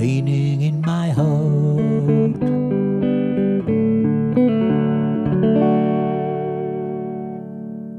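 Peavey jazz guitar playing a closing phrase of single notes and chords, ending on a chord that rings out and slowly fades.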